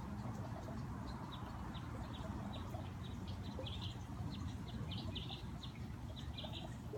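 A small songbird giving a run of short, high chirps, some in quick clusters, over the steady splashing of a garden fountain.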